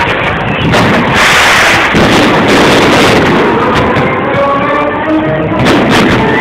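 Fireworks display: aerial shells bursting, with a quick run of sharp bangs near the end, heard over music.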